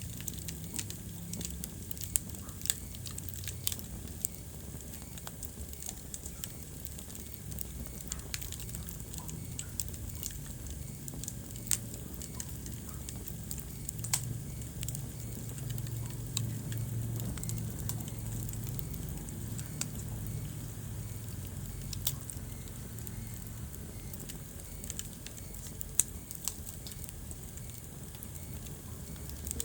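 Wood fire crackling in a fireplace: irregular sharp pops and snaps, a few much louder than the rest, over a low steady rumble of the burning logs.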